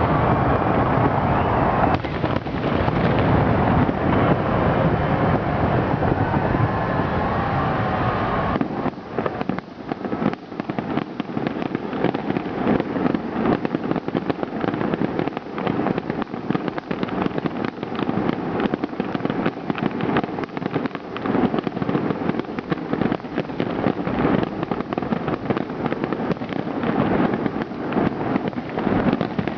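Fireworks display: a dense, continuous barrage for about the first eight seconds, then a rapid run of crackling pops and bangs.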